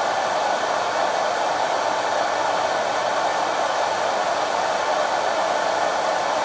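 Vidal Sassoon Hot Tools hair dryer running steadily, its motor and fan blowing a constant airy rush with no change in speed.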